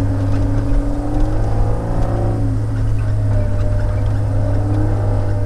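Diesel engine of a Komatsu log loader running under load, a steady low drone, with a whine that rises and falls in pitch as the boom and grapple swing.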